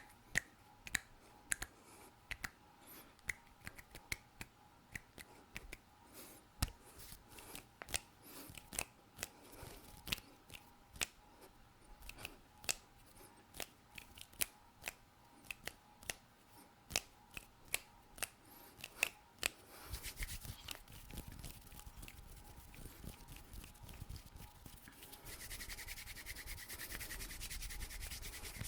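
Close-miked hand sounds: a quick, uneven run of sharp finger clicks, about two a second, then, about two-thirds of the way in, steady skin-on-skin rubbing that grows louder near the end.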